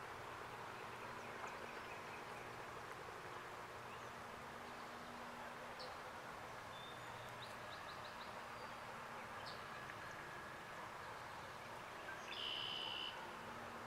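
Faint outdoor ambience with a steady low hum and scattered short bird chirps, then a louder bird call of under a second near the end.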